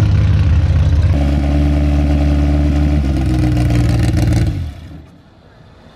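Four-cylinder car engine running loudly as the car pulls up, not a V8. Its note shifts about a second in and again about three seconds in, then dies away near the end.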